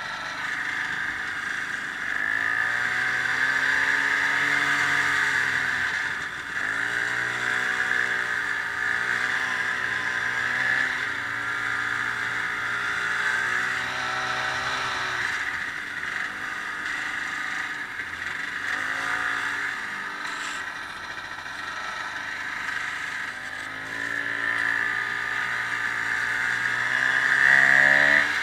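Ski-Doo snowmobile engine running under way, its pitch rising and falling again and again as the throttle is opened and eased, over a steady high-pitched whine. It is loudest near the end.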